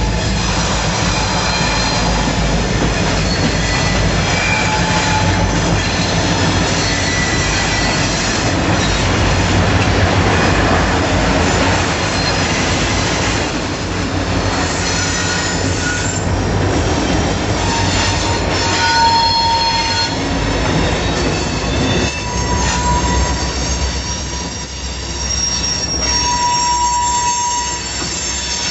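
Freight train of the Buffalo and Pittsburgh Railroad rolling past, with a steady rumble of cars on the rails and high-pitched wheel screeching that comes and goes as the wheels cross a switch.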